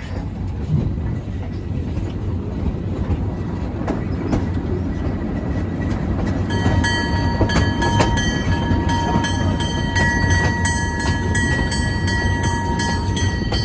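Passenger train rumbling as it rolls slowly through a yard. About halfway through, the locomotive bell starts ringing steadily, as is required when moving through a yard.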